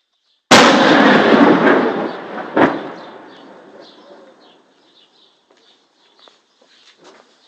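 Artillery shell explosion: a sudden loud blast about half a second in, with a rumbling tail that dies away over several seconds, and a second sharp bang about two seconds after the first.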